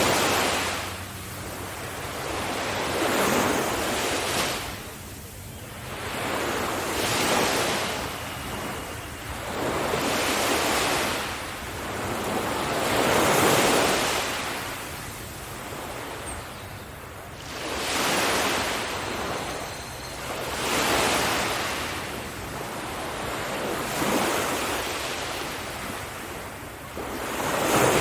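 Surf breaking on a beach: waves come in one after another about every three to four seconds, each swelling to a rush of hiss and then fading.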